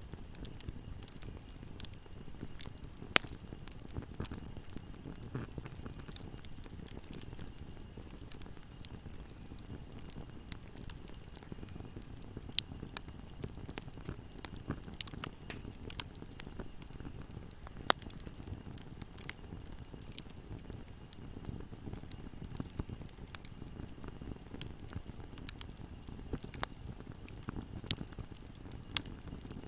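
Campfire burning, with a steady low rumble and irregular crackles and sharp pops of burning wood; a few pops stand out louder.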